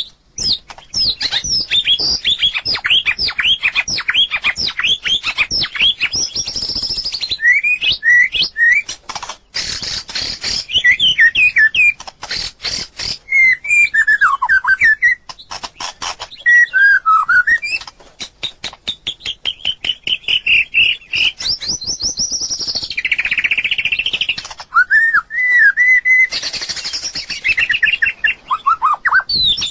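White-rumped shama singing a long, varied song. It runs through quick downslurred whistled notes, rich warbled phrases and stretches of fast, dry rattling notes, with short pauses between phrases.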